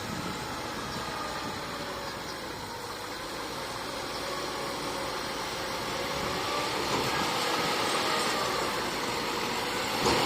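Bulldozer's diesel engine running steadily, growing gradually louder over the second half.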